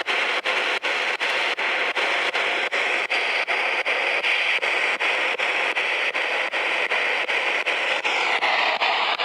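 Spirit box (ghost box) sweeping radio stations: a steady hiss of static broken by regular clicks about four times a second as it jumps from channel to channel.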